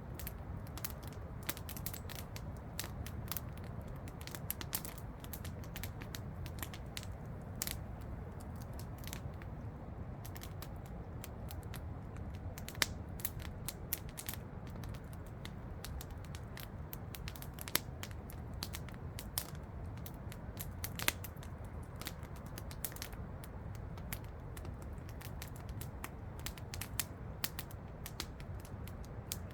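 Wood campfire crackling with frequent irregular snaps and a few louder pops, over a low steady rumble.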